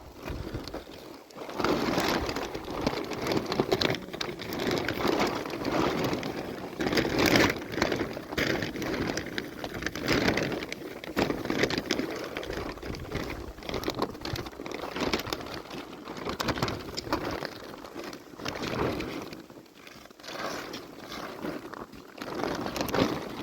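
Plastic sheeting rustling and crinkling as it is handled, in irregular bursts.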